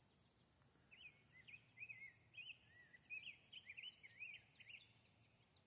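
A songbird singing faintly: a rapid run of warbling phrases of rising and falling notes, starting about a second in and stopping just before the end.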